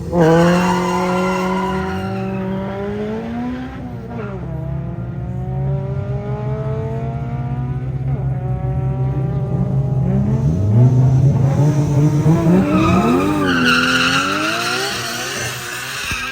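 Engines of a car and a pickup truck launching hard together and accelerating, the revs climbing and dropping back at gear changes about four seconds in and again near the end.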